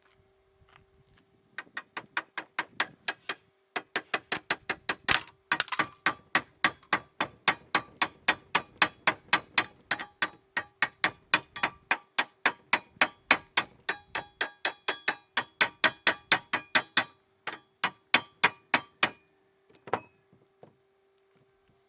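Hammer blows in quick, even succession, about four a second, with a brief pause early on and one last separate blow near the end, as work goes on on a wooden stable door.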